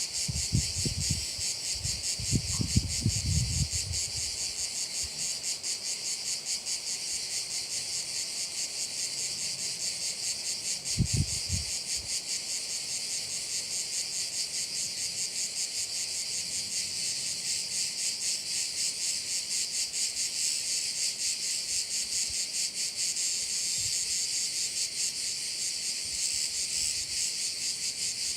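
Crickets chirping in a dense, steady chorus of high, fast-pulsing sound. A few low thumps come in the first few seconds and again about eleven seconds in.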